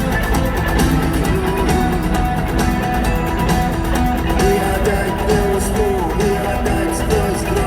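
Live rock band playing in a large arena, with a gliding guitar melody over bass and drums.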